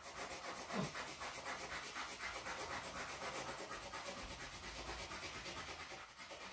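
Orange wax crayon rubbed back and forth on paper in quick, even strokes, several a second, shading an area lightly.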